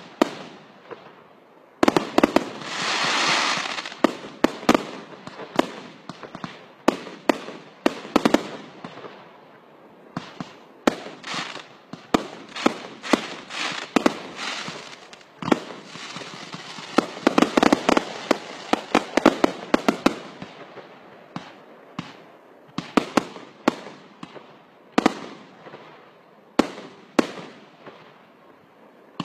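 Fireworks display being fired: a steady string of sharp shell bursts and bangs, some in quick runs, with a hissing rush about two seconds in and a dense spell of crackling bangs a little past the middle.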